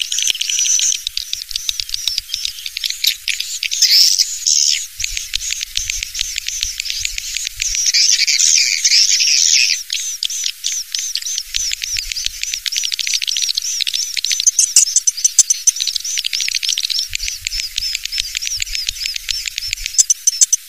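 Swiftlet calls from a swiftlet-house lure recording: dense, rapid, high-pitched chattering chirps and trills that go on without a break.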